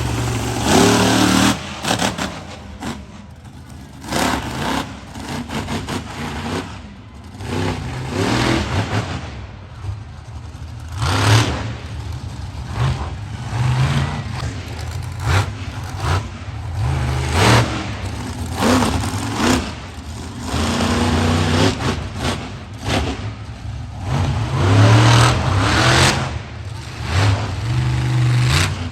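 Monster truck engine revving in repeated surges, its pitch rising and falling again and again.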